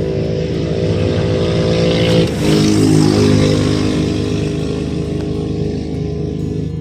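Car engine running as the car drives along; about two seconds in the engine note dips and changes, then runs louder.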